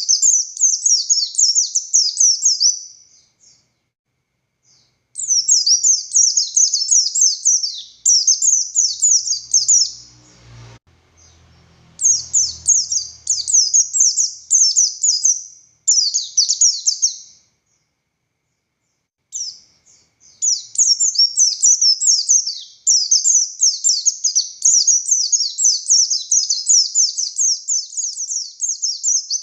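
White-eye (pleci buxtoni) singing in long runs of fast, high twittering, each run lasting a few seconds, with a couple of short pauses, then unbroken through the last third. A faint low rumble lies underneath about ten to thirteen seconds in.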